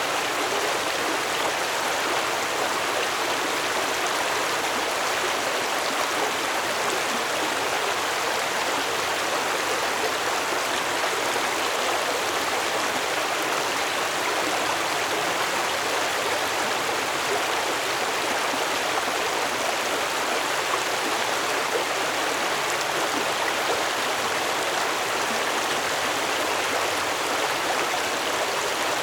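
Stream water flowing, a steady, even rush and babble.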